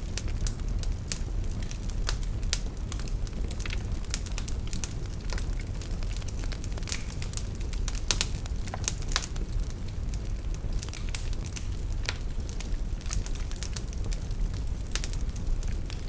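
Wood fire burning in a fireplace: a steady low rumble of the flames with frequent irregular pops and crackles.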